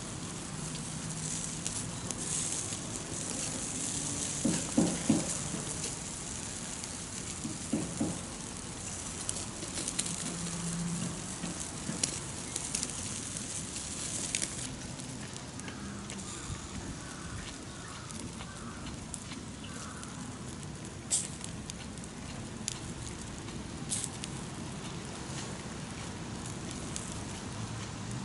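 Wood campfire crackling, with scattered sharp pops and a few louder knocks around five and eight seconds in.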